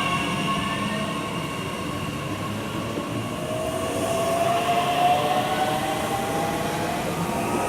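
Electric train running past with a steady rail rumble, its drive giving a whine that rises slowly in pitch, several tones together.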